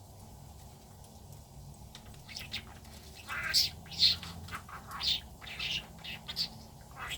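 Budgerigar chirping and warbling in a quick run of short, sharp notes, starting about two seconds in.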